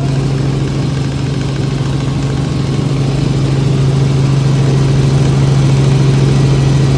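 Helicopter running with a steady low drone that grows slightly louder from about halfway through.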